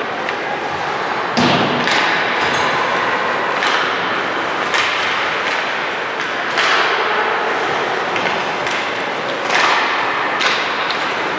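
Ice hockey play in an arena: a string of sharp thuds and cracks from puck, sticks and boards, about eight in all, each echoing, over steady rink noise.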